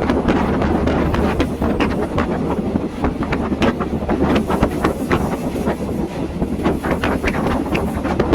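Passenger train running along the rails, heard from aboard: a steady low rumble with many irregular clicks and knocks from the wheels and carriage, and wind on the microphone.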